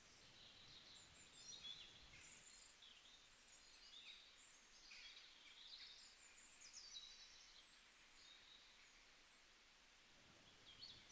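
Near silence with faint bird chirps: short, high calls scattered throughout.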